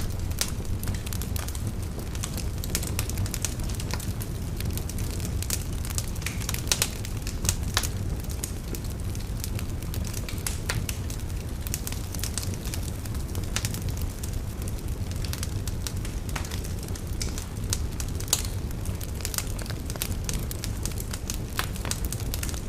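Wood fire burning in a fireplace: a steady low rumble with frequent irregular sharp crackles and pops throughout.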